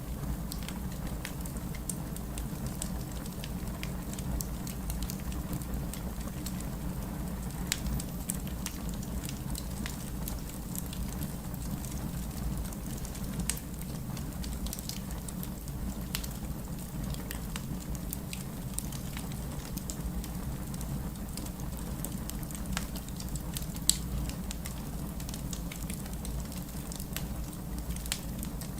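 Crackling wood fire with frequent sharp pops and snaps, one louder pop near the end, over a steady low wash of heavy rain.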